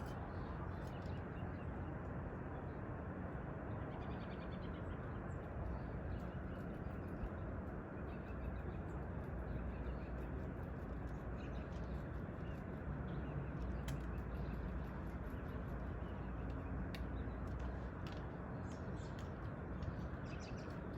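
Occasional bird calls over a steady low outdoor rumble.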